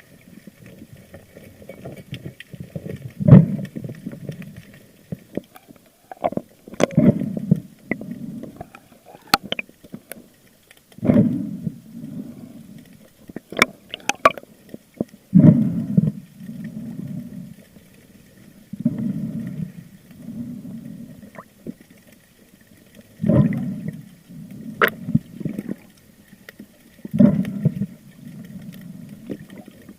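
Water gurgling and sloshing around an underwater camera, in surges every few seconds, with scattered sharp clicks.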